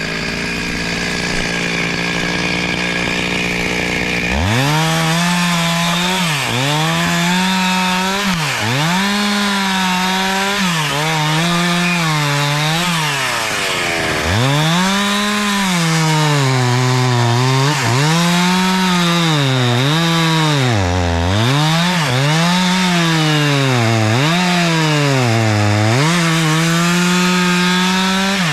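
Two-stroke chainsaw running steadily for about four seconds, then cutting wood: its engine pitch drops as the chain bites under load and climbs back again, over and over.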